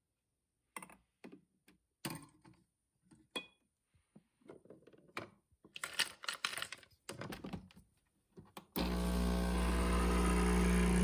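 A string of short, irregular clicks and light handling noises, with dead silence between them. Background music starts abruptly near the end.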